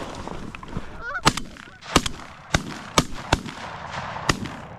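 Two hunters' shotguns firing at geese, about seven shots from about a second in to near the end, some in quick pairs. Geese honk among the first shots.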